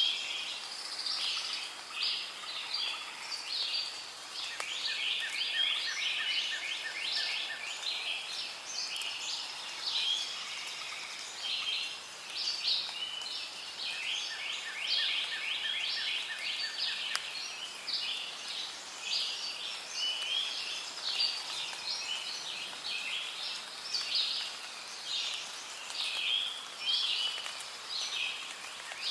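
Rainforest ambience: a dense, continuous chorus of birds and insects chirping. A steady run of quick, evenly spaced pulses sounds under the chorus twice.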